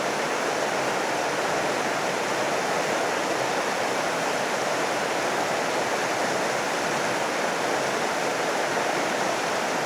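A creek running loud and steady: an even rush of flowing water.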